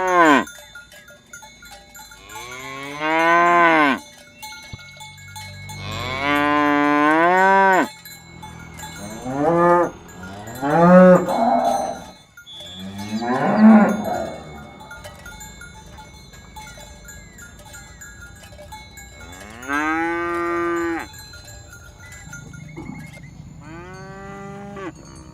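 Cattle mooing over and over: about eight separate calls of half a second to two seconds each, most rising and then falling in pitch.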